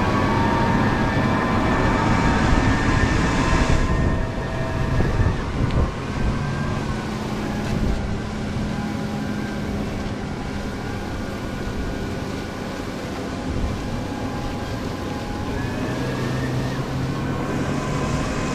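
Case tractor engine running steadily. About four seconds in, the harsher high part of the sound drops away and it settles to a steadier, lower running note, then builds up again near the end.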